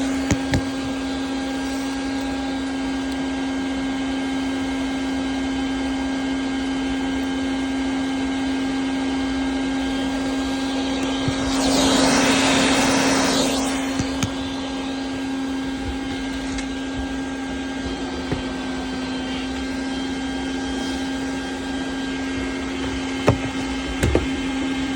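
Vacuum cleaner running with a steady whine and rushing air. The rush grows louder for a couple of seconds about halfway, and a few sharp clicks come as pieces of broken Christmas ornament are sucked up.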